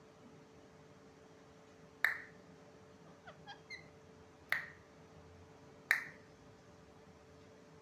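Three sharp clicks, with a few short, quiet chirps from a pet parrot between the first and second.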